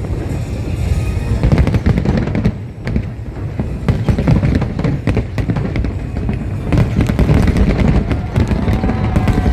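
Fireworks bursting in rapid succession, a dense run of booms and crackles.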